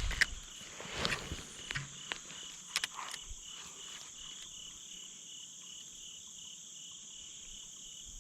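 Chorus of crickets and other insects: a steady high-pitched buzz with a regular pulsing chirp several times a second. Scattered clicks and rustles of handling sound over it in the first three seconds or so.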